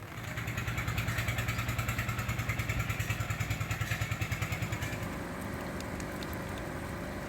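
An engine running nearby with an even, rapid pulsing of about six beats a second, louder for the first five seconds and then fading to a steadier, quieter run.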